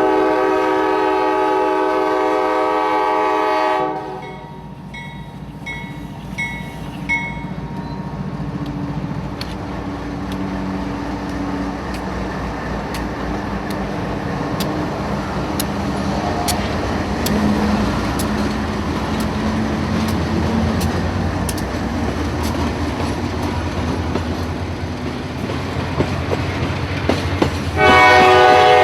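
CSX freight train's diesel locomotive horn blows a long multi-note blast for about four seconds, followed by a few bell dings. Then the locomotives' engines rumble and the wheels click over the rail as the train passes, growing louder, and the horn blows again near the end.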